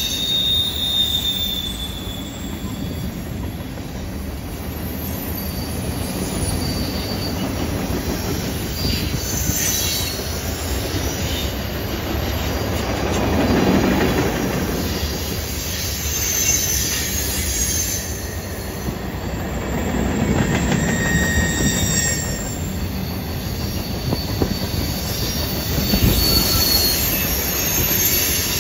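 Freight cars of a CN freight train rolling past on a curve: a steady rumble of steel wheels on rail, swelling now and then, with brief high-pitched flange squeals as the wheels grind around the curve.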